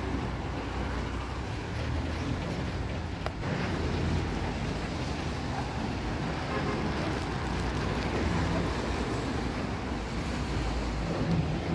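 Steady street ambience in the rain: an even hiss of rain on wet surfaces over a low hum of traffic.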